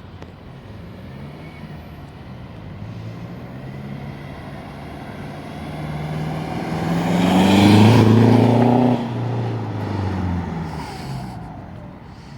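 2004 Ford Mondeo 2.2 TDCi four-cylinder diesel engine being revved through a de-cat pipe and a custom stainless steel exhaust. The pitch climbs over several seconds to a loud peak about eight seconds in, drops off suddenly, then winds back down with one smaller blip.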